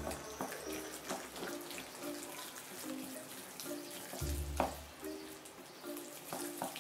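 A spoon beating an egg into thick choux pastry dough in a bowl: wet squelching and scraping with occasional sharp ticks, over soft background music.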